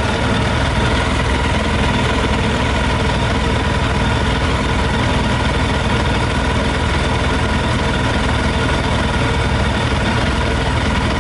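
Yamaha YZF600R's inline four-cylinder engine idling steadily while running on 40% whisky poured into its tank.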